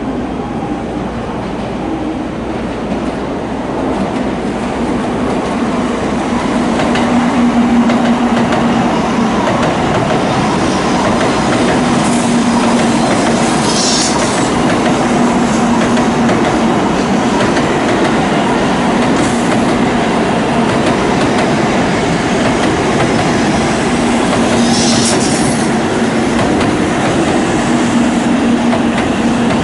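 Shinkansen bullet train moving along the platform, a steady loud running rumble with a low hum that swells over the first several seconds. A few brief high-pitched squeals cut through, the clearest about a third of the way in and again near the end.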